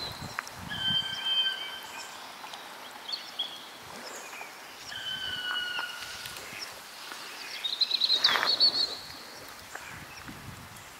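Birds calling in open country: several clear, held whistles at different pitches, and a quick trilled call about eight seconds in, over a faint steady outdoor hiss.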